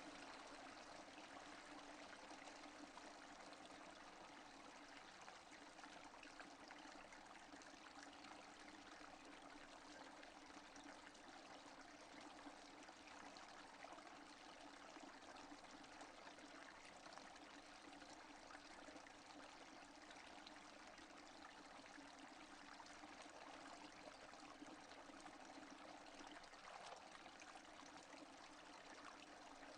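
Steady rainfall, faint and even, with no thunder or other events.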